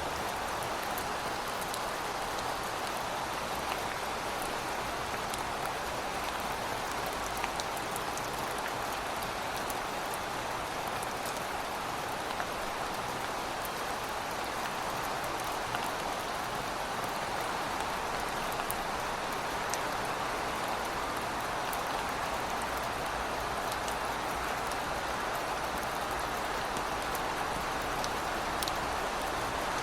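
Steady heavy rain falling on hard surfaces, an even hiss with scattered sharp drop ticks.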